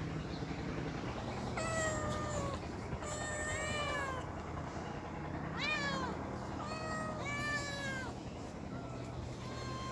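Domestic cats meowing: several drawn-out meows, each falling in pitch and some overlapping, with a short faint one near the end.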